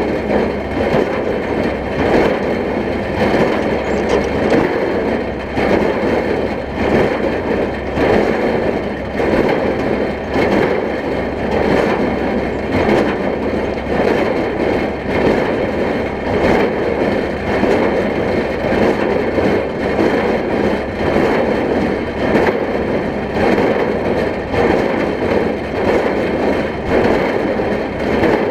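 Oliver 770 tractor's six-cylinder engine running steadily under load, pulling a working Case 230 square baler with a regular mechanical clatter.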